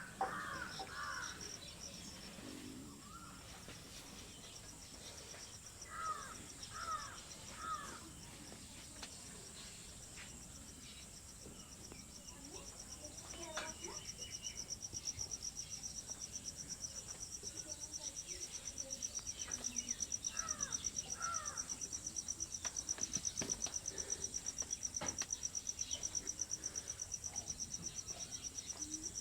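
A bird calling in short calls, a few at the start, three in a row about six seconds in and two more about two-thirds through, over a steady, fast-pulsed, high insect trill that grows louder from about halfway. A few faint knocks.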